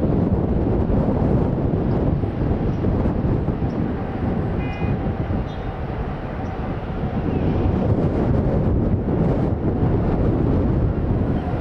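Boeing 777-300ER's GE90 engines at takeoff thrust, heard as a loud, steady, low rumble, mixed with gusting wind on the microphone.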